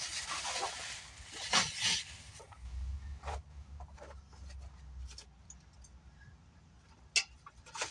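Rustling and a few sharp knocks as motorcycle packaging and loose parts are handled, with wind buffeting the microphone for a couple of seconds near the middle.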